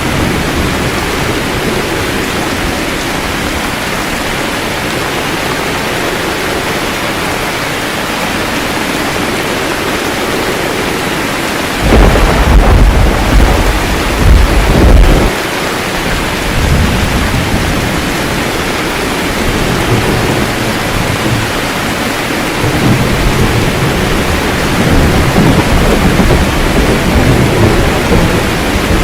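Steady heavy rain with thunder: a loud thunderclap about twelve seconds in rumbles for around three seconds, and softer rolling rumbles return over the last several seconds.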